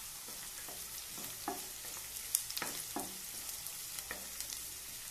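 Chopped onion and carrot sizzling in hot oil in a deep pan, with a steady sizzle and short scrapes and taps of a wooden spatula against the pan as the mix is stirred.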